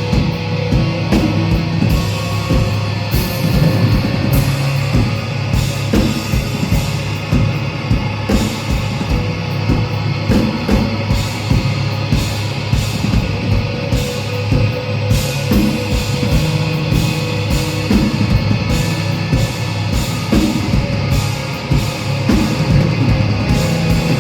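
Loud live rock music from a band: a drum kit keeping a fast, steady beat under heavy guitar and bass.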